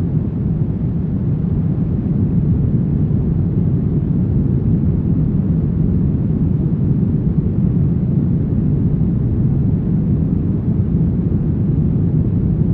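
Brown noise: a steady, deep, even hiss with most of its weight in the low end and little above a few kilohertz.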